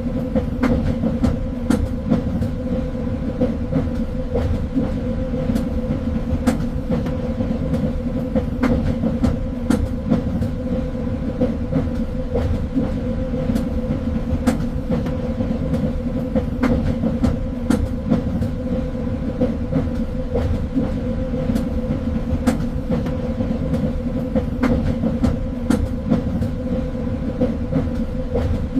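Train running along the track: a steady rumble of wheels on rail with a constant hum, and frequent sharp clicks and knocks from the rails.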